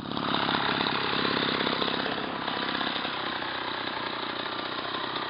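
Small engine of a front-engine motorized bicycle running steadily at a fast, even putter, easing slightly after the first couple of seconds.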